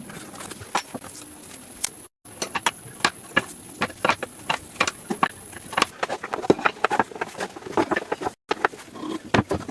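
Irregular sharp knocks and taps, several a second in uneven runs, of the kind hand tools make working wood.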